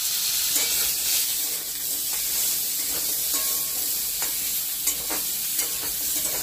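Potato chunks sizzling as they fry in hot oil in a metal kadai, with a spatula stirring them and scraping against the pan in irregular short knocks.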